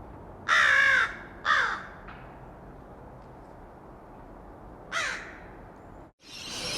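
Crow cawing: three harsh calls, the first the longest, with the last near the end falling in pitch.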